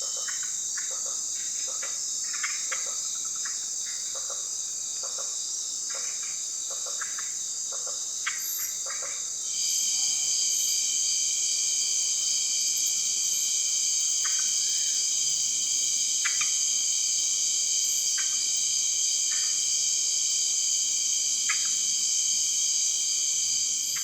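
Chorus of rainforest insects such as crickets, several high steady trills at once. About ten seconds in, a lower trill joins and the chorus gets louder. Short chirps sound throughout, close together in the first half and every couple of seconds later.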